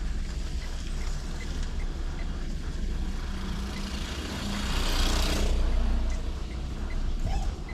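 Car driving, with a steady low engine and road rumble; a louder rush of passing-traffic noise swells and fades about four to five and a half seconds in. A faint, quick, regular ticking runs alongside, dropping out in the middle.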